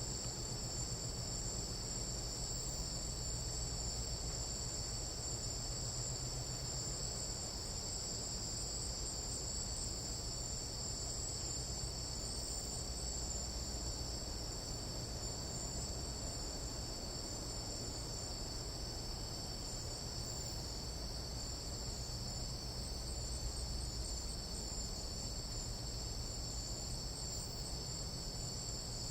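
Tropical rainforest night insects in a dense, steady chorus, several high-pitched shrilling tones layered together without a break. A faint low rumble lies underneath.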